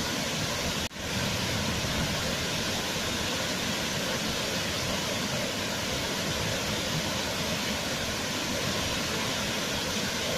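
Waterfall: steady rushing of falling water. It cuts out for an instant about a second in, then comes straight back.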